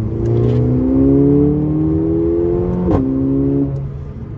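Mercedes-AMG A45's turbocharged four-cylinder engine accelerating, heard from inside the cabin: the engine note rises steadily for about three seconds, then drops in pitch with a short crack at an upshift, and fades as the driver eases off near the end.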